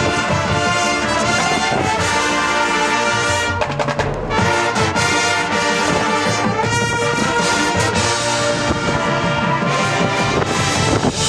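High school marching band playing, brass section leading with sustained full chords, with a brief break and a low drum hit about four seconds in.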